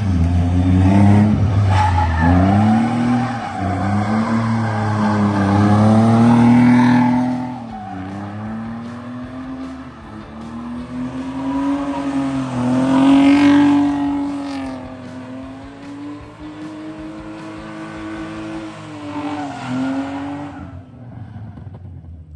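Drift car at high revs with its engine pitch swinging up and down over and over, its tires squealing and skidding. The sound is loudest in the first seven seconds and again about halfway through, then fades out at the end.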